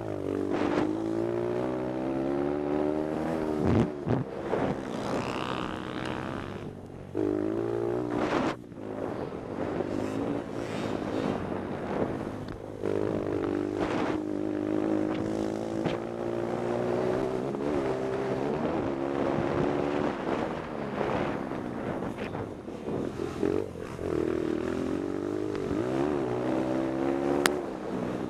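Pit bike engine revving hard and dropping off again and again, heard from the rider's helmet: the pitch climbs as the throttle is held and falls away sharply each time it is closed for a corner. There is a single sharp click near the end.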